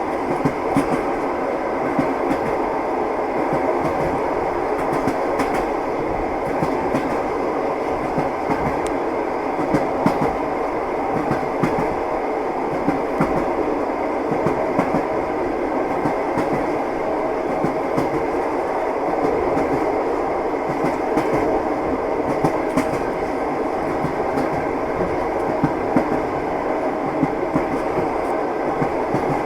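Train wheels clattering over rail joints as a railway carriage rolls along at steady speed, a continuous rumble with frequent irregular clicks and knocks.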